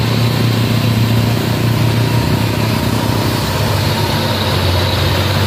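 Heavy road vehicle's diesel engine running steadily as a low drone on the climb. Its pitch drops slightly about two seconds in.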